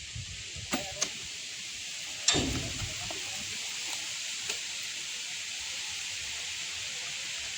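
Steady hiss of rain, with two light knocks in the first second and a heavier thud a little over two seconds in.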